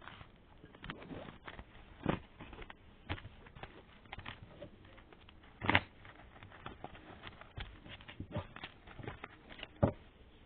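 Tarot cards being shuffled and handled: irregular soft clicks and taps, with two louder sharp knocks, one about halfway through and one near the end.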